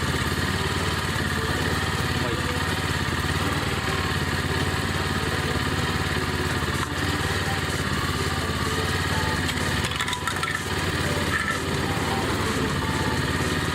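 The GH100 engine salvaged from a walk-behind rice transplanter runs steadily, driving a homemade can crusher. A few brief clattering knocks come in about ten seconds in.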